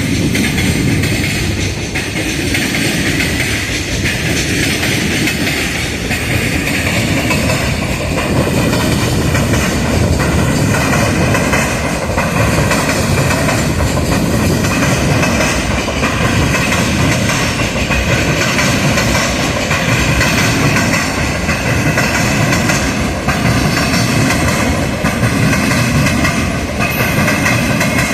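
A JR Freight freight train running past on the rails, its wagons clattering over rail joints with a steady rumble. A high, steady ringing tone runs through it, growing stronger in the second half.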